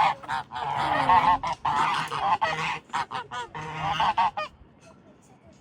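Waterfowl on a lake calling loudly in a rapid series of overlapping calls, which stop about four and a half seconds in.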